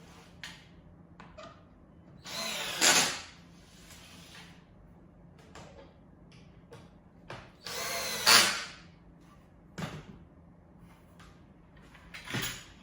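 A power screwdriver runs in three short bursts, driving screws into the platform boards: two runs of about a second each, about two and about eight seconds in, and a brief one near the end. Light clicks and knocks of parts being handled come in between.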